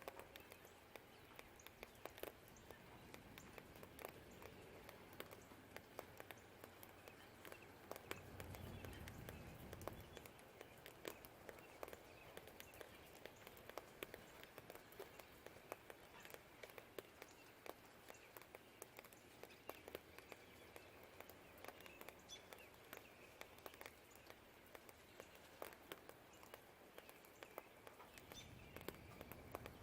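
Quiet rain with scattered drops ticking and pattering, and faint birdsong. A low distant rumble swells and fades about a third of the way in and again near the end.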